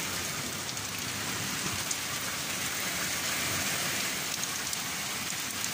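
Torrential rain falling steadily, an even hiss with scattered drop ticks.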